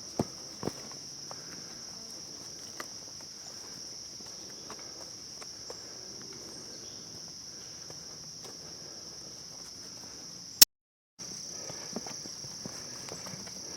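A steady chorus of insects in the woods, one even high-pitched buzz, with a few light ticks near the start. Near the end a sharp click and the whole sound cuts out for about half a second, then resumes.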